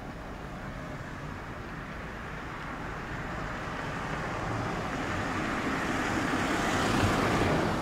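Electric train running past close by: wheel and running noise grows louder over several seconds, peaks near the end, then falls away quickly.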